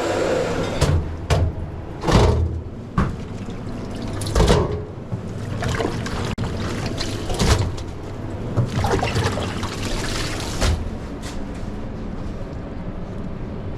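Kitchen prep handling: irregular knocks and clatter of containers and utensils, with liquid being poured, while a seasoning mix is put together.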